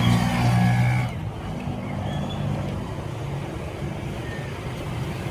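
Road traffic: a vehicle's engine hum is loud for about the first second, then settles into a steady low traffic rumble.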